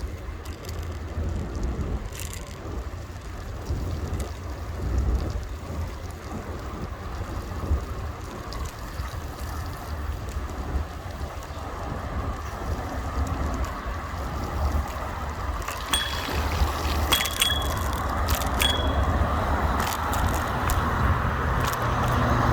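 Electric kick scooter being ridden over rough pavement: low rumble of wind on the microphone and the ride, with sharp rattles and metallic jangles in the last few seconds as road noise rises.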